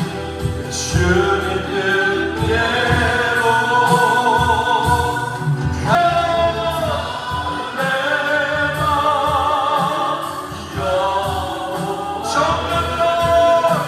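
Congregational worship song: a group of voices singing held, sustained phrases together over band accompaniment.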